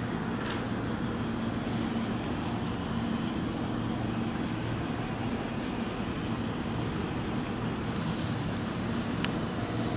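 Steady low rumble and hiss of railway station ambience, with a single sharp click about nine seconds in.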